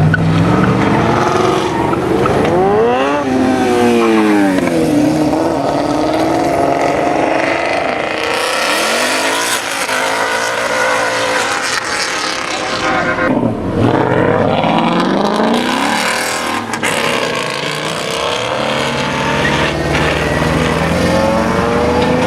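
Car engines revving and accelerating hard, their pitch climbing and falling again and again, over a steady rush of engine and road noise.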